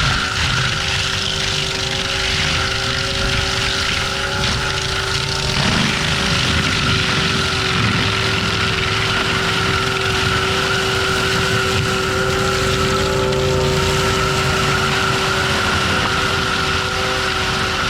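Forestry mulcher running hard: a diesel engine drone under the steady whine of the spinning mulcher head, its pitch shifting briefly about six seconds in.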